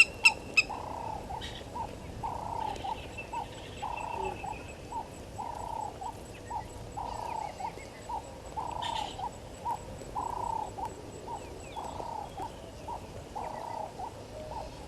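A bird repeating a low two-part call throughout, a short note followed by a longer rounded note, about every second and a half, with faint higher chirps of other birds now and then. Two sharp clicks come right at the start.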